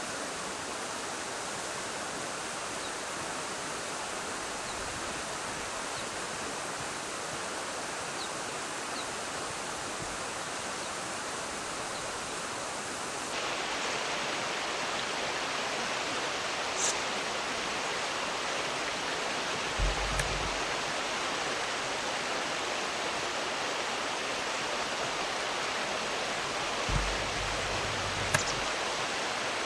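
Steady rush of flowing river water, a little louder from about halfway through. A couple of short low thumps come near the end.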